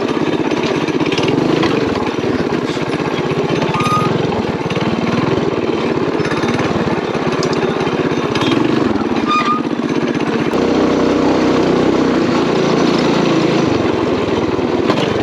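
Mini bike's small single-cylinder four-stroke engine running steadily on the trail, its note changing about ten seconds in.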